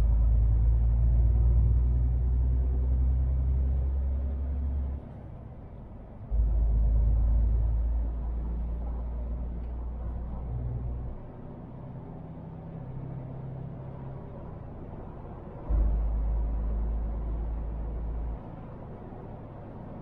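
MAN TGX truck's diesel engine rumbling low, swelling loud three times, each swell starting and cutting off suddenly, with quieter running in between.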